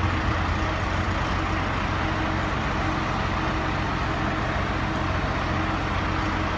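Heavy vehicle engine running steadily, with a low hum and an even level throughout.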